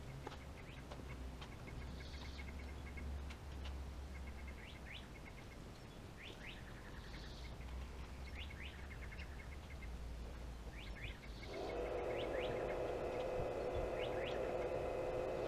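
Small birds chirping and trilling over and over, with short rising calls and rapid trills. About three-quarters of the way through, a steady droning hum with a few fixed tones starts and becomes the loudest sound.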